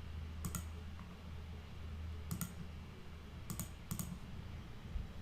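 A few sharp clicks of a computer mouse and keyboard, each a quick double tick, spaced irregularly over a faint steady low hum.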